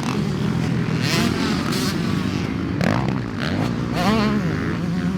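Motocross dirt bike engines running, their pitch rising and falling as they rev.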